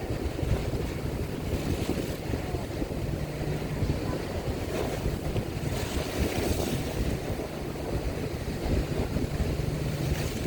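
Strong wind buffeting the microphone over the steady low hum of a ferry's engines, with a louder gust of hiss about six seconds in.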